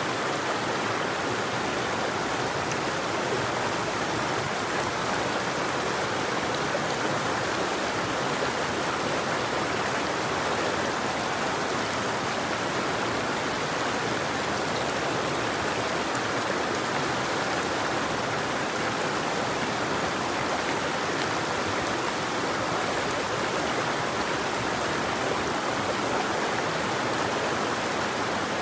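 River water flowing in a steady, unbroken rush, with no birdsong.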